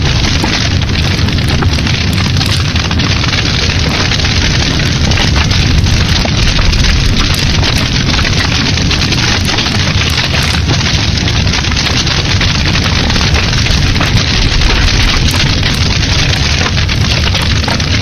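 Fire burning in a fireplace: a steady, loud rushing with a deep rumble underneath and frequent small crackles and pops throughout.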